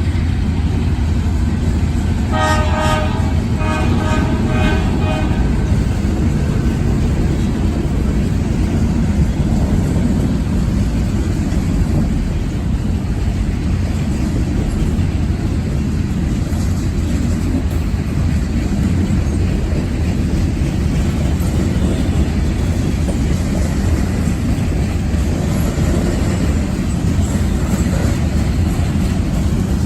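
CSX mixed freight train with three diesel locomotives, the locomotive horn sounding two short blasts about two seconds in, followed by the steady low rumble of the train rolling by.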